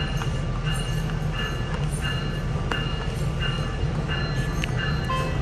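A Nippon Sharyo two-car diesel multiple unit under way, heard from inside the passenger car: a steady low rumble from the running train, with faint high tones coming and going and a couple of light clicks.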